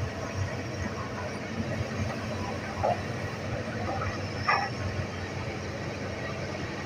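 Hitachi excavator's diesel engine running steadily, with two short, sharp yelp-like sounds about three and four and a half seconds in.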